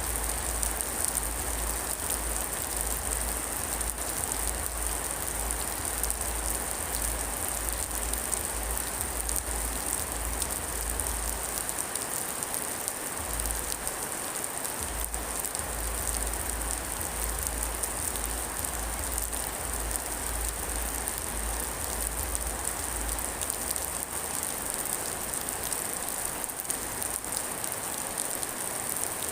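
Steady rain falling, an even hiss of drops with no break. A low rumble under it comes and goes, dropping out for a moment about halfway and fading away for the last few seconds.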